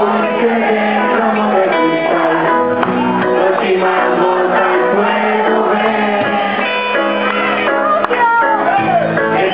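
Reggae band playing live, the full band loud and continuous, with some singing over it.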